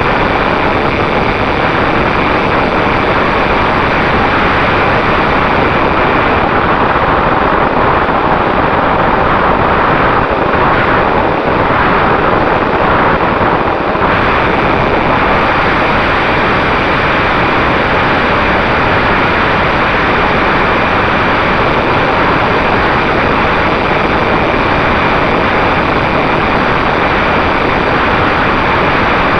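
Strong wind rushing over the microphone, loud and steady, with a faint constant tone underneath.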